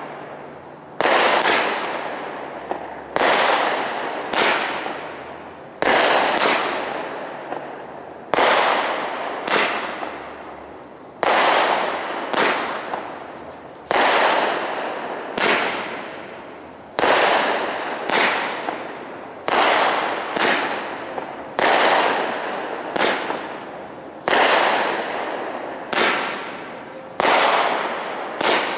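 Aerial fireworks bursting in a quick series of about twenty sharp reports, roughly one every second or two, each fading off over about a second, with almost no deep boom.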